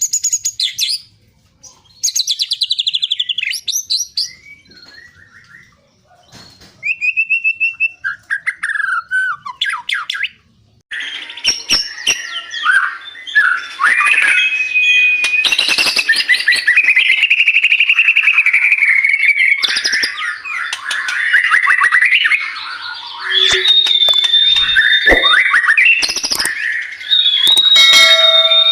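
White-rumped shama (murai batu) singing loudly. For about the first ten seconds it gives separate short whistled and trilled phrases with pauses between them; after that it pours out an almost unbroken stream of whistles, rapid trills and chattering notes.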